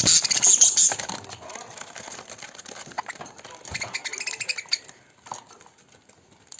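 Budgerigars chattering and warbling, a dense high-pitched burst of calls in the first second, then thinning to scattered short chirps and clicks.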